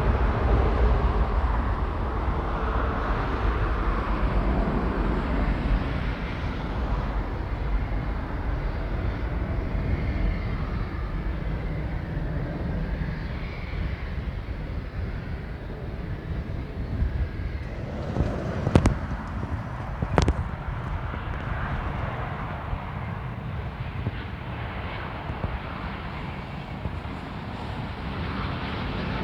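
Jet airliner engines running, a steady rumble heard in the open air, with two sharp clicks about two-thirds of the way through.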